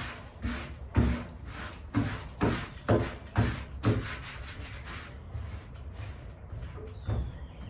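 Rhythmic rubbing strokes with dull thuds against the wooden case of a grand piano being polished, about two a second, growing fainter after about four seconds.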